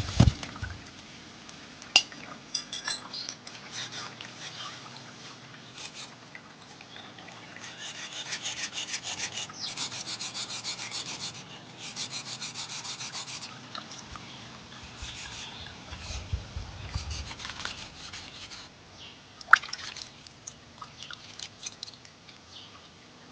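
Rhythmic hand scraping, a hard object worked back and forth against a hard surface in runs of quick strokes, with a few sharp knocks; the loudest knock comes near the end.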